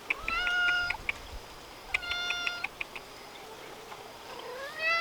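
Domestic cat meowing three times, each meow drawn out, the last one rising in pitch.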